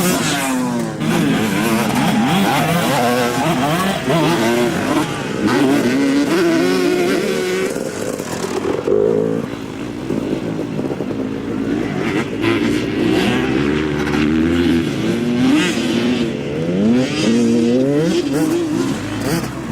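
Several motocross dirt bike engines revving up and down, their pitches rising and falling and overlapping as the bikes accelerate and shift.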